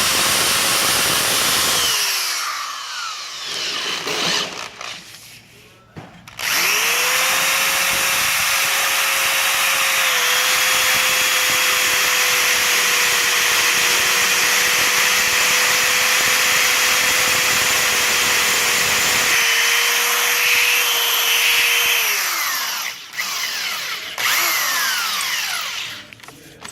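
Power drill with a carbide tile and glass bit boring into 1/8-inch steel tubing, the motor whining steadily over a hiss of cutting. It stops about two seconds in, its pitch falling as it winds down, starts again about six seconds in and runs steadily until near the end, when it winds down and gives a few short bursts.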